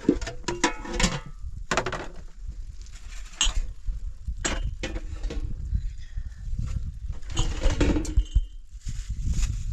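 Irregular clinks and knocks of hard objects being handled, some with a short ring.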